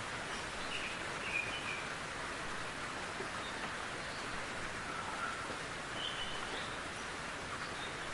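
Steady rain falling, with a few faint, brief bird chirps about a second in and again around six seconds.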